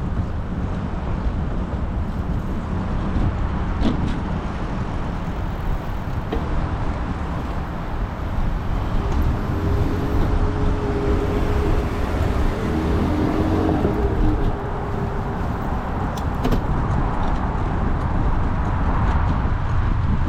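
Wind buffeting the microphone and city traffic noise during a bicycle ride, with a passing motor vehicle's engine hum from about nine to fourteen seconds in.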